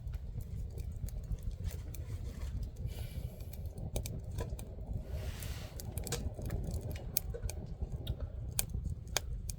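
Campfire crackling: irregular sharp pops and snaps over a low steady rumble, with two brief soft rushes of hiss about a third of the way and halfway through.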